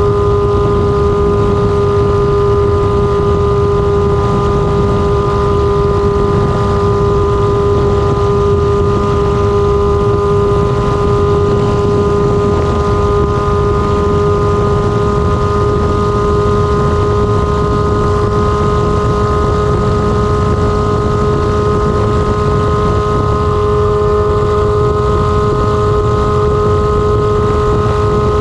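Kawasaki ZR-7's air-cooled inline-four engine running at a steady speed with no exhaust muffler: a constant drone that holds one pitch throughout, over a rumbling wind-like noise.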